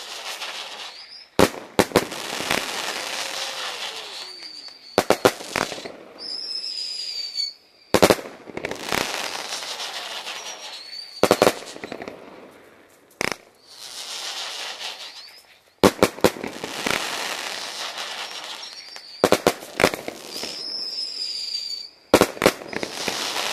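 Fireworks going off: clusters of sharp bangs from bursting shells every three or four seconds, with crackling and brief high whistles between them.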